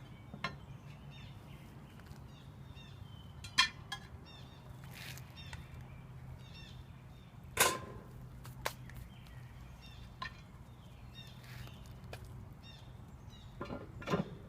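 Small birds chirping over a steady low hum, with a few scattered knocks and clicks. The sharpest comes about halfway through.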